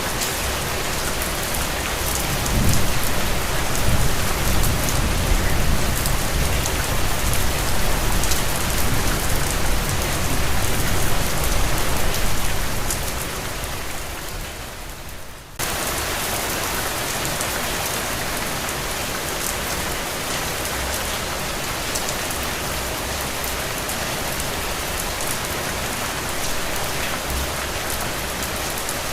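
Steady rain falling. A low rumble of distant thunder rolls under it for roughly the first half. About halfway through, the sound dips and then cuts back in abruptly to steady rain.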